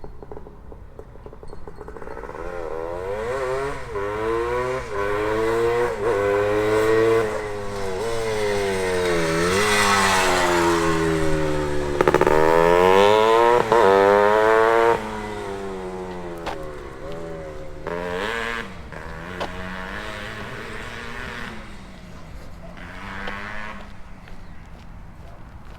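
1973 Penton/KTM Berkshire 100's 100cc two-stroke single on a Bassani expansion pipe, revving up and dropping back again and again as it is ridden through the gears. It grows louder up to about halfway through, then drops off suddenly and carries on quieter with smaller rises and falls.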